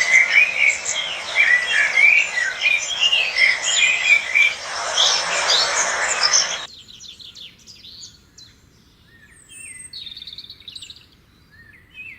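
A flock of lovebirds chirping, many short overlapping calls at once. About six and a half seconds in the sound drops suddenly to a few quieter, scattered chirps.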